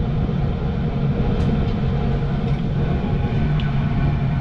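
Tempstar two-stage gas furnace running with its burners lit on second stage: a steady low roar of flame and fans.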